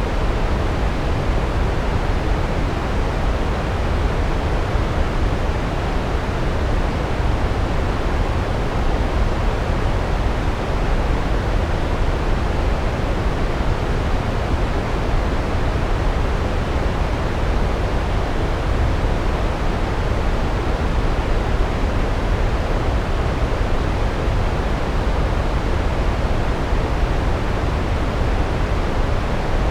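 Large waterfall: a steady, unbroken rush of falling water, heaviest in the low end.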